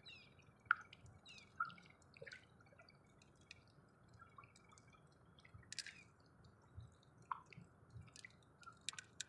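Faint, irregular water drips and small splashes, a few drops a second at uneven spacing.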